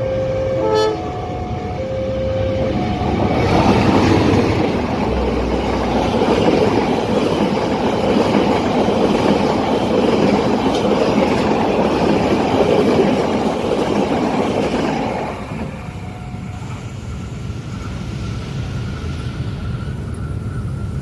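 A long train passes over a level crossing. The loud rush of wheels on the rails builds about three seconds in, holds steady for some twelve seconds, then falls away. At the start, short alternating two-note tones sound.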